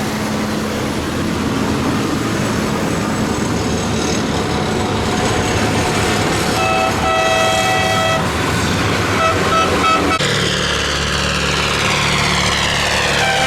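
Procession of tractors driving past with engines running. A vehicle horn sounds one long blast about halfway through, then a few short toots, and near the end a passing engine's whine falls in pitch.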